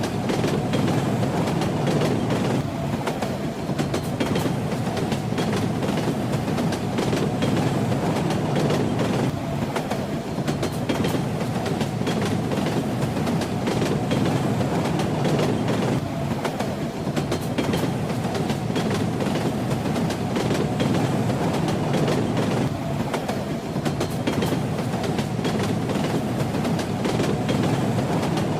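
Train running steadily along the track: a constant low rumble with wheels clacking and rattling over the rails.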